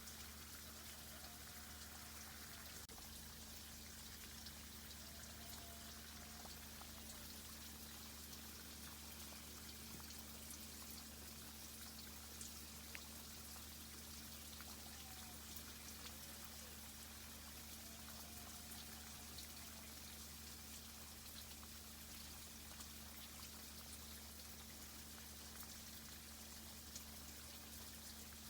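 Tree irrigation system running: a faint, steady hiss of water with fine dripping and crackling over a low steady hum. A few faint short whistle-like tones come and go.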